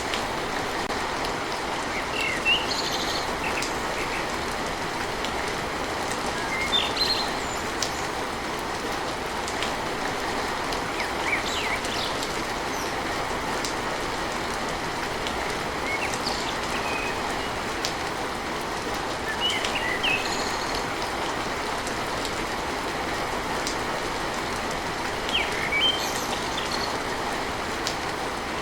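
Steady rain drumming on a tin roof, with a bird chirping briefly about every four to five seconds.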